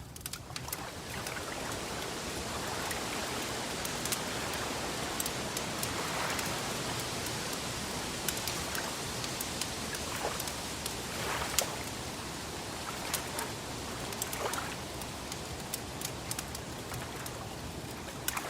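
Wood fire crackling, with scattered sharp pops and snaps over a steady rushing hiss.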